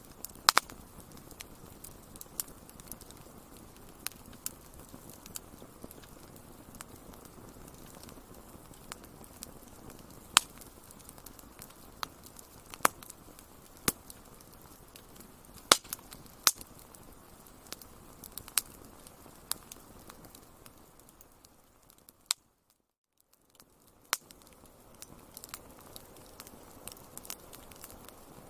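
Wood fire crackling: irregular sharp pops and snaps over a steady hiss. About three quarters of the way through, the sound fades out almost completely for a second or two, then comes back.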